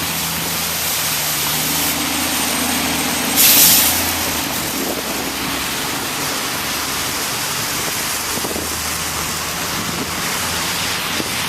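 Vehicle traffic on a snowy city street: engines running under a steady rush of noise, with a short loud hiss about three and a half seconds in.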